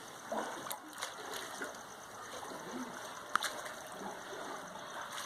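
Water sloshing and splashing, stirred up by earthquake shaking, with a sharp click a little past three seconds in.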